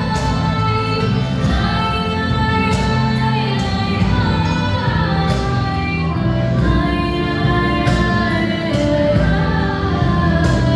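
Live wedding-band music: a sustained, bending melodic lead line over a steady percussion beat, in an instrumental passage between sung verses.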